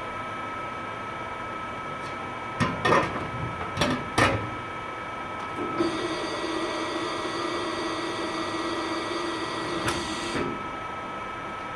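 A few sharp knocks, then a small motor runs steadily for about four and a half seconds and cuts off.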